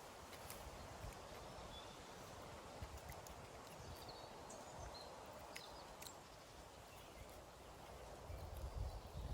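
Faint outdoor ambience with a few scattered sharp clicks and faint short high chirps. A low rumble comes in near the end.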